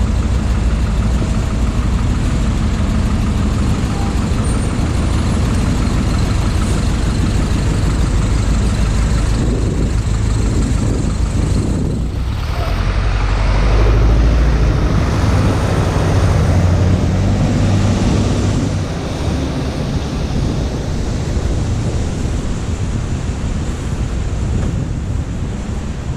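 Loud, steady motor-vehicle rumble with a broad hiss over it. It swells a little past the middle and eases off in the last third.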